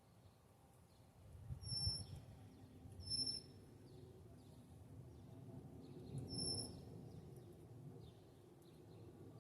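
Small wild birds giving short, high, clear calls: three brief notes spread across a few seconds, over a low rumbling background.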